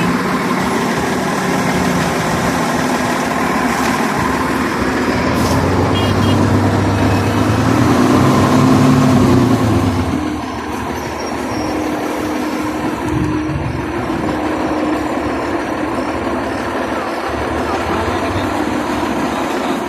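Heavy diesel engine running under load, building up about a third of the way in and easing back just before halfway, then running on more steadily.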